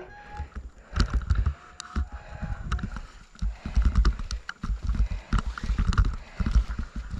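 Strong wind buffeting the microphone in irregular gusts, a deep rumble that swells and drops, with scattered crackles and a few brief high tones.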